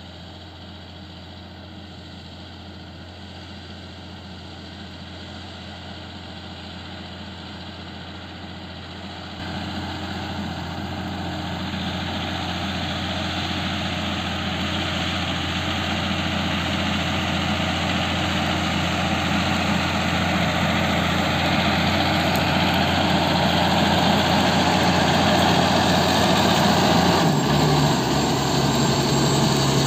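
CLAAS Arion 620 tractor engine running steadily and growing louder, with a sudden step up in level about nine seconds in and a shift in its low tone near the end.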